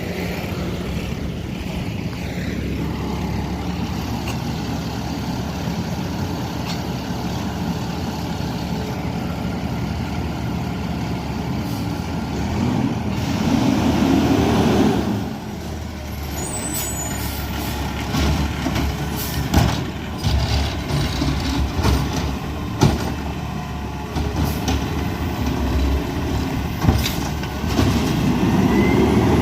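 Peterbilt 520 McNeilus ZR garbage truck's diesel engine running steadily, with a loud air-brake hiss about halfway through. Several sharp knocks and bangs follow in the second half.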